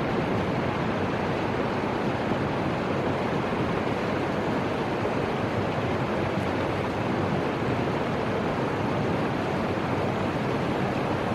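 Steady rushing of the Fuji River's flowing water, an even wash of noise that does not change.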